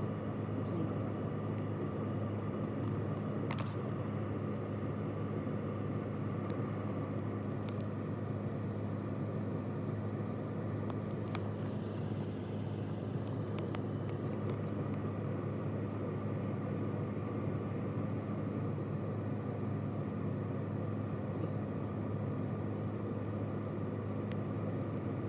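Steady low mechanical hum over a rumbling noise, even in level throughout, with a few faint clicks.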